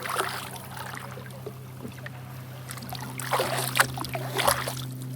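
Kayak paddle strokes splashing in the water, a few separate strokes with the loudest near the end, over a steady low hum.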